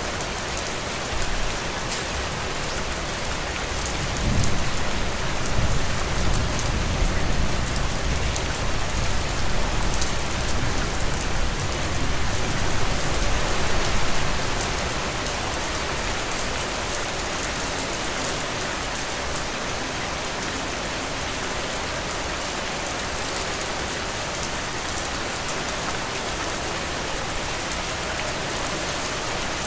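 Heavy rain falling steadily in a dense, even hiss of drops. About four seconds in, a deep low rumble swells underneath it and fades after about ten seconds.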